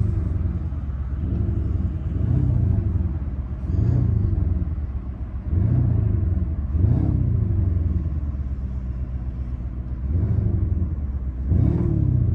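Lamborghini Urus S twin-turbo V8 idling with a low rumble and revved in short throttle blips, about seven of them, each rising and falling in pitch, through a loud exhaust; the revs pause for a few seconds in the middle, leaving the idle.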